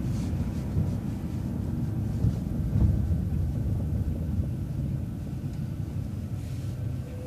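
City transit bus running at low speed through a left turn, a steady low engine and road rumble.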